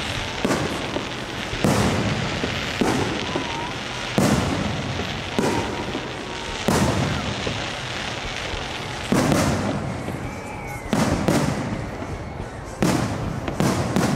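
Aerial fireworks bursting in a steady barrage, a bang about every second, with quicker clusters of bangs near the end.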